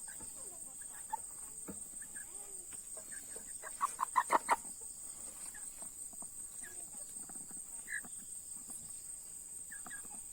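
Chickens clucking softly, with a quick run of about six loud clucks about four seconds in.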